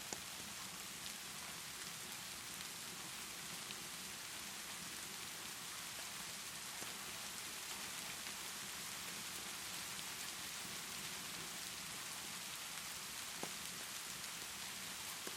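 Steady rainfall, an even hiss, with a few faint sharp clicks scattered through it.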